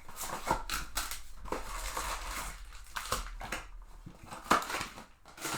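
Trading-card packs and cards being handled: irregular crinkling of foil pack wrappers and plastic with sharp clicks, one louder click about four and a half seconds in.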